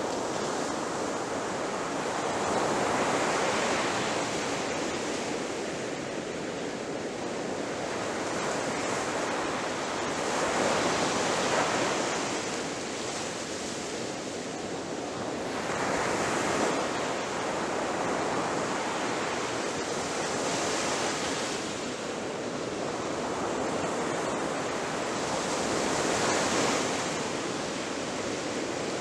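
Ocean surf: waves breaking and washing up on a beach in a continuous roar that swells and falls back every few seconds.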